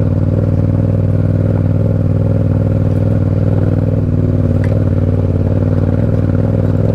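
Motorcycle engine running steadily under load at a near-constant pitch as the bike climbs a steep gravel hill on street tyres.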